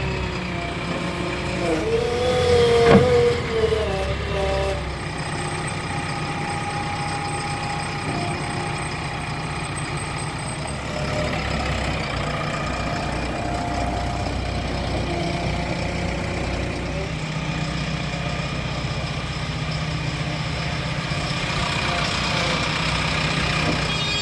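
Heavy diesel machinery running steadily: the engines of a backhoe loader and tractors at work. About three seconds in there is a single sharp clank.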